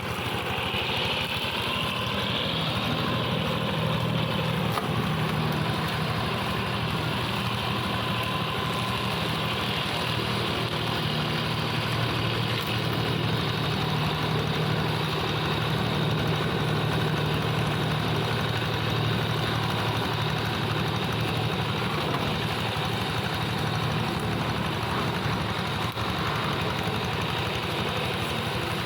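The engine of a plough tractor modified into a grass and brush mower, running steadily.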